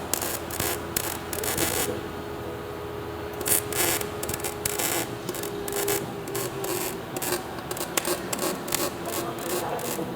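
Rough scraping and rubbing in irregular strokes, with a lull about two seconds in, over a steady low hum.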